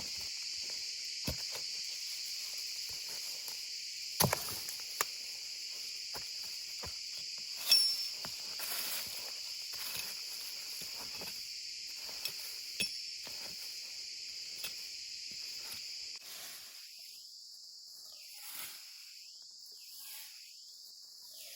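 Steady high-pitched insect chorus, with scattered clicks and knocks of handling or footsteps, the loudest about eight seconds in.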